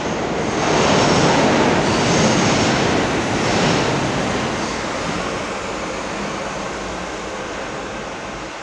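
Subway train running through the station, a steady rumble that slowly fades as it moves away.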